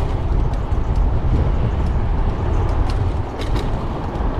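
Wind buffeting the microphone and rushing past while riding a fat-tire e-bike, a steady, rumbling noise, with a few faint ticks.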